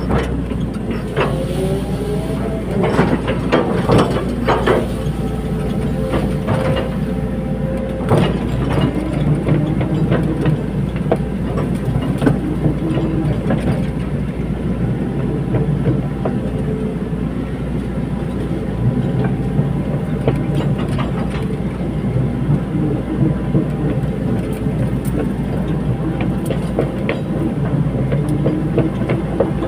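Caterpillar 320D hydraulic excavator working: steady diesel engine with a hydraulic whine that rises and falls in pitch, and repeated sharp metallic clanks.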